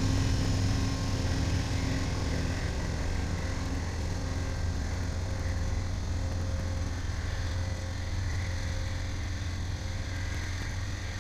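A passing train's low, steady rumble, slowly getting quieter. A droning engine tone in it dies away in the first couple of seconds.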